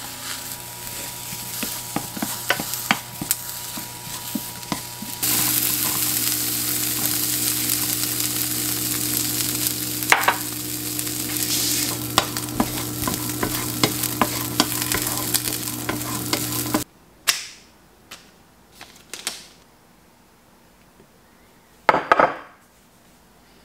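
Sliced button mushrooms and then supersweet corn kernels sizzling in a nonstick frying pan, stirred with a wooden spoon that clicks against the pan; the frying gets louder about five seconds in, when the corn takes over. The sizzle cuts off suddenly near the end, leaving a quiet background with a few short scrapes of a wooden spoon spreading tomato sauce on a tortilla.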